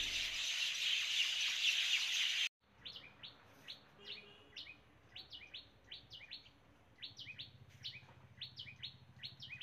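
A dense, steady hiss that cuts off suddenly about two and a half seconds in. It gives way to a bird chirping over and over, two to three short, quick chirps a second.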